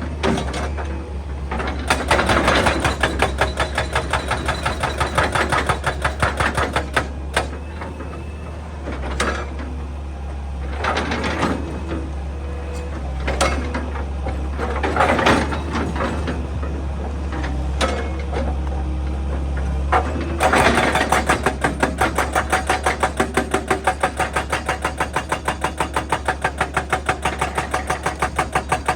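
Excavator engine running steadily while a hydraulic breaker hammers rock in bursts of rapid repeated blows. About two-thirds of the way through, the hammering settles into a steady, even pulsing.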